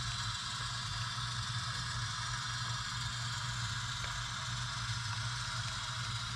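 HO-scale model locomotive running slowly as it moves a cut of cars: a steady hum with a faint mechanical hiss and clatter.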